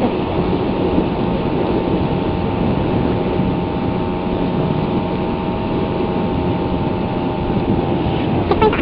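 Suzuki Raider 150's single-cylinder four-stroke engine running at a steady pace while riding, its pitch holding even, over a steady rush of wind and road noise.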